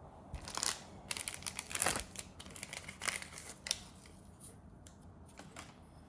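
Crinkling and clicking handling noises, busiest in the first four seconds and thinning to a few scattered clicks.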